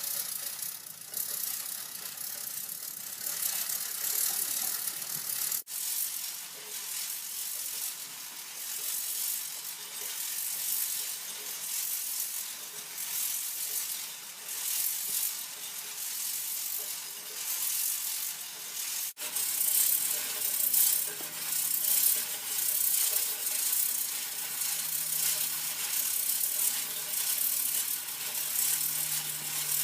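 Homemade tuna-can steam turbine spinning on its wire pivot above a soup-can boiler: a fast, steady rattle of the can rotor against the pivot with a hiss behind it. The sound breaks off abruptly twice and resumes.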